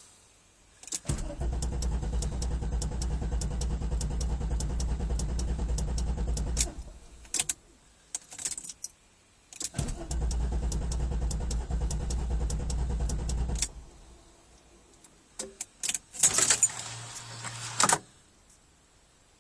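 Corrado VR6's starter cranking the engine in two long attempts, about five and four seconds each, without the engine catching: a no-start. Near the end, keys rattle and click at the ignition, with a short hum.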